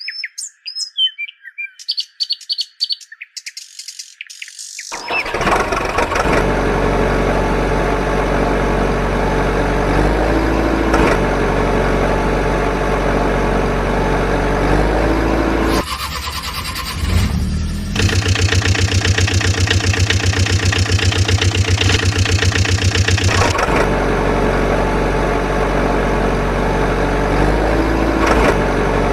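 Birds chirping for the first few seconds, then a heavy engine starts about five seconds in and runs steadily. Its note changes partway through, with a stretch of fast, even pulsing.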